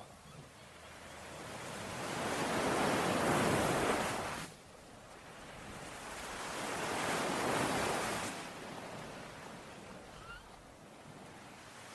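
Ocean waves washing onto the shore: two surges, each building for a couple of seconds and then dropping off abruptly.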